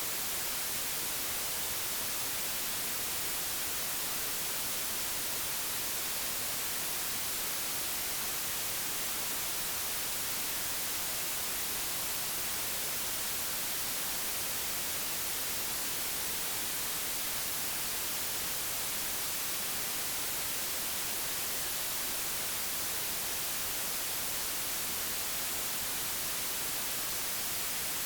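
Digitally generated white noise: a steady, even hiss that never changes, brighter in the high frequencies.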